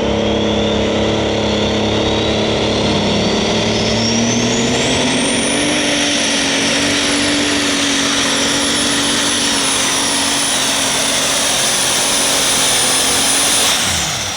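Super stock pulling tractor's turbocharged engine at full power down the pull track, with a high turbo whistle that climbs over the first six seconds and holds. Near the end the engine comes off power and the whistle falls away.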